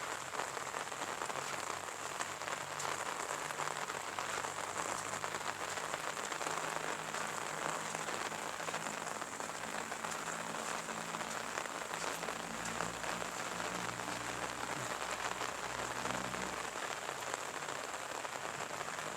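Steady rain falling, an even hiss of drops, with a faint low steady drone underneath.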